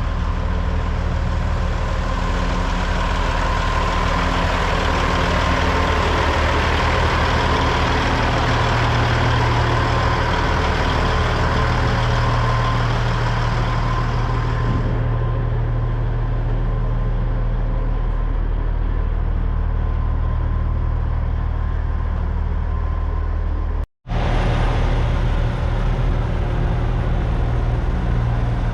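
Heavy diesel truck engine running steadily, with a deep, even low end. The high end dulls about halfway through, and the sound cuts out for an instant near the end.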